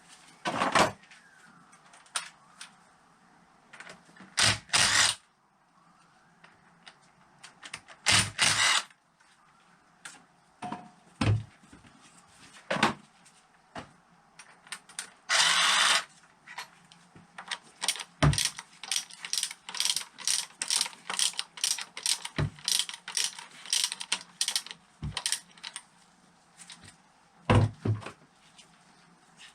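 Hand ratchet wrench clicking in short runs as bolts are turned, with scattered knocks of metal tools and parts being handled.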